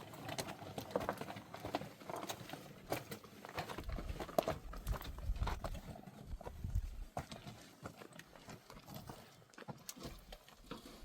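A series of irregular clicks and knocks, with a low rumble in the middle stretch.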